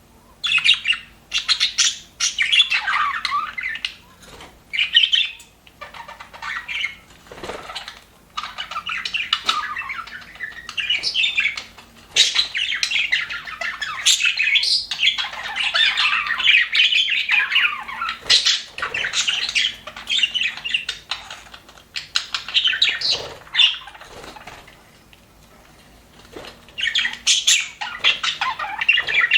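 Budgerigars chattering and warbling in bouts of rapid, scratchy chirps and squawks, with short pauses between, and one longer lull a little before the end.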